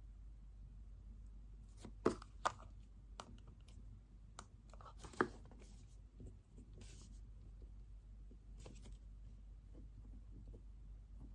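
Pen and paper handled at a study desk: a few sharp taps about two and five seconds in, with short rustles of paper between them, over a faint steady room hum.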